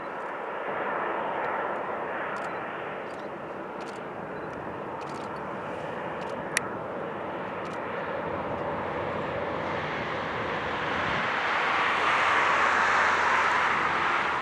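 Jet airliner engines at taxi power, a steady rushing whine that grows louder as the aircraft passes close, loudest near the end. A single sharp click about six and a half seconds in.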